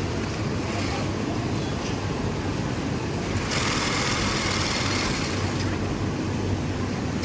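Industrial sewing machines running steadily, a continuous mechanical din with a low hum and a fast rattle. A hiss rises in the middle for about a second and a half.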